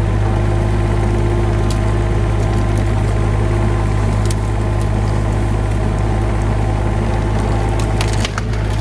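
Engine of a heavy machine running steadily, with a few short wood cracks and snaps over it as the tree is handled.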